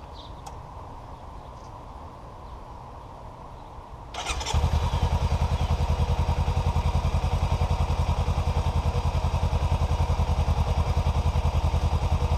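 2017 Kawasaki Ninja 300's parallel-twin engine started on the electric starter about four seconds in, catching at once, then idling steadily with an even, rapid pulse, running on freshly changed oil.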